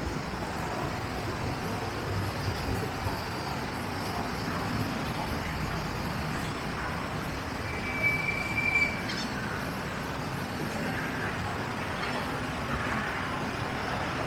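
Steady rumble of jet aircraft engines from an airliner at the airport, with a short high tone lasting about a second near the middle.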